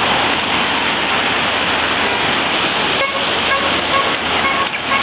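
Loud, steady rushing noise with no clear single source. From about three seconds in, a string of short, evenly repeated beeps or rings sounds over it.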